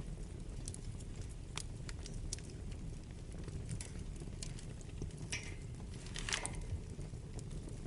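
Wood fire burning in a fireplace: a steady low rumble of flames with scattered sharp crackles and pops, two louder crackles with a brief hiss at about five and six seconds in.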